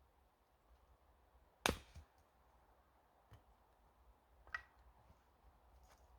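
A few sharp knocks. The loudest is about two seconds in, a second clear one about halfway through, and there are fainter taps between them.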